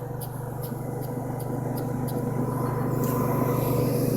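A motor vehicle's engine running steadily and growing slowly louder as it draws nearer. A light, rapid ticking sounds over it and stops about halfway through.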